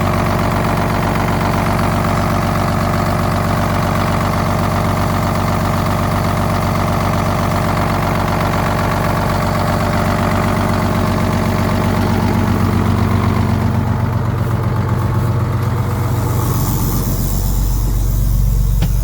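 Diesel engine of a 1985 Ford CL9000 cabover semi truck idling steadily through its muffler, freshly cold-started. Near the end the sound turns deeper and duller.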